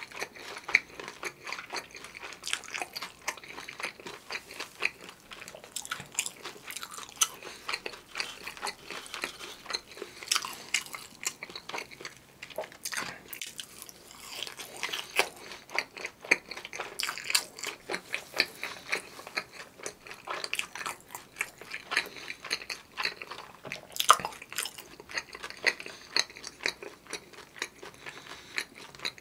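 Close-miked biting and chewing of a fried cheese stick coated in Bburinkle seasoning: a dense, continuous run of crisp crunches and crackles.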